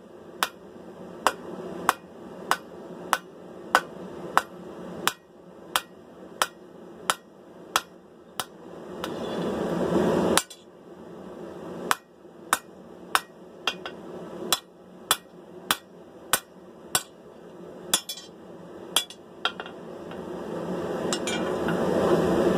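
Blacksmith's hand hammer striking hot steel on an anvil at a steady pace, about three blows every two seconds, drawing down a sword's tang over the anvil horn. A rushing noise swells underneath, stops abruptly with a brief pause in the hammering about ten seconds in, then builds again as the blows resume.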